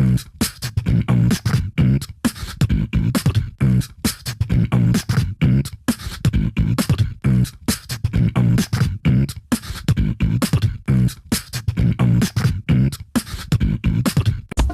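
Beatboxing: a repeating loop of vocal percussion hits with low, voiced booms, keeping an even rhythm.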